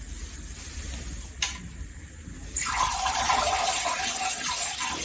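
A rush of running water starts suddenly about halfway through and runs for a couple of seconds, with a single click a little before it.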